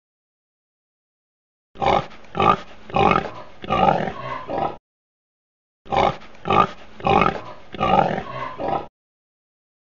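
Domestic pigs grunting, a run of about five grunts over three seconds, played twice with about a second of silence between.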